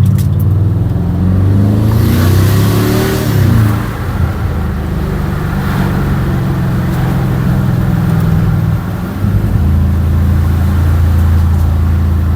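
Muffler-deleted 2006 Porsche Cayenne Turbo's twin-turbo 4.5-litre V8 under way: the engine note climbs in pitch under acceleration about two seconds in with a rushing hiss over it, drops back a little before four seconds, then settles into a steady drone that shifts to a lower pitch about nine seconds in.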